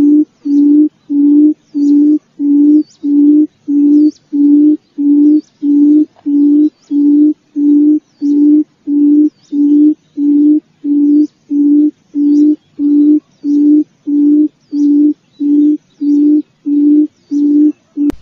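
Forest quail (puyuh hutan) calling: a low hooting note repeated at a steady, even pace of just under two a second, with faint high chirps above it.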